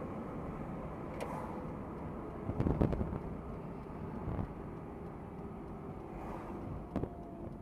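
Steady car road and engine noise as picked up by a dashcam inside a moving car, with a few knocks about two and a half to three seconds in and a sharp click near the end.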